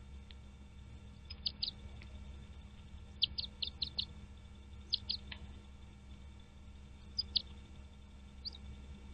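A bird chirping: short high chirps in small clusters of two to four, about a second and a half in, around three to four seconds, near five seconds and again after seven seconds, over a faint steady low hum.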